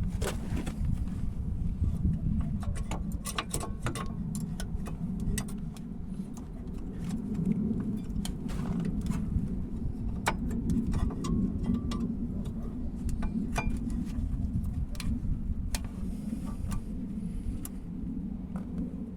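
Irregular metallic clinks and clicks of hand tools and metal brake parts being handled, over a steady low rumble.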